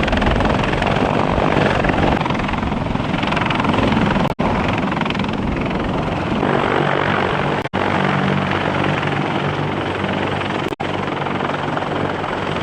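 CH-53E Super Stallion heavy-lift helicopter running: loud rotor and turbine-engine noise, with a steady low hum from about halfway through. The sound drops out for an instant three times.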